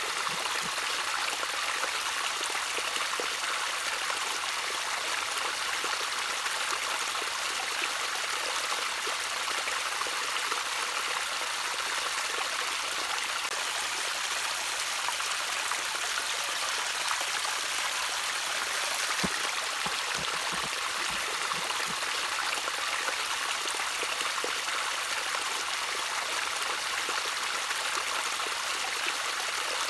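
Small stream of water trickling and babbling steadily, a continuous bright splashing with small drips and gurgles.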